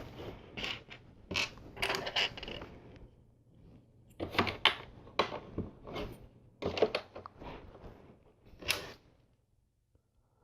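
Plastic LEGO pieces being handled and pressed into place: a scatter of short clicks and light rattles, the sharpest one near the end.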